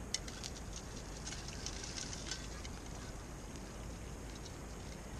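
Popcorn kernels sizzling in hot oil in a lidded pot over a campfire, with a cluster of sharp crackles and small pops in the first couple of seconds, the sign that the kernels are just starting to pop.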